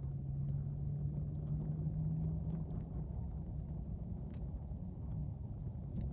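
Campfire crackling, a few faint pops over a steady low rumble. A low hum runs through the first two and a half seconds, rising slightly in pitch before it fades.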